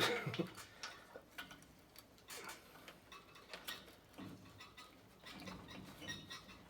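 Scattered light metal clicks and taps, a louder clatter at the start, from the parts of a B&G Series 100 circulator pump being fitted together by hand.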